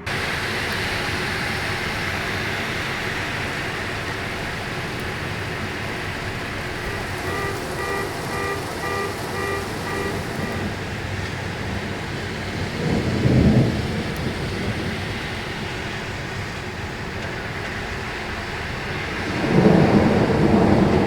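Steady rain falling during a thunderstorm, with a roll of thunder rumbling a little past halfway and another, longer one near the end.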